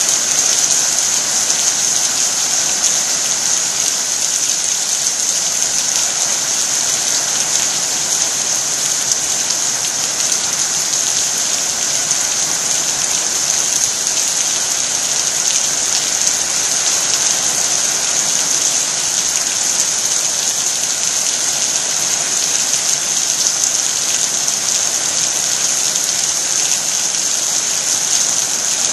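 Heavy rain falling steadily: a dense, even hiss with scattered drop hits.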